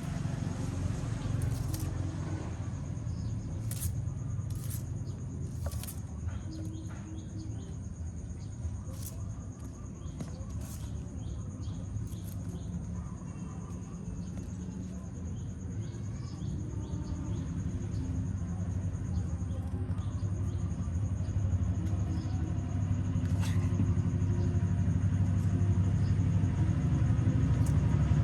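A low, steady mechanical hum that grows louder near the end, with scattered sharp clicks over it.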